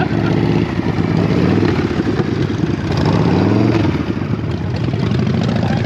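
Motorcycle engine running and being revved, its pitch rising and falling a few times.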